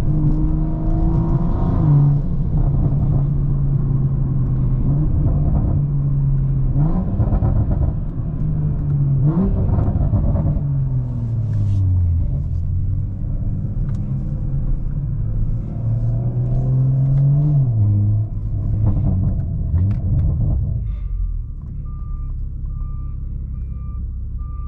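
BMW M340i's turbocharged 3.0-litre B58 straight-six running at steady cruising revs, its note stepping up and sliding back down several times as the revs change. About 21 s in the engine note drops away to a low road rumble, and a high electronic beep starts repeating in short pulses.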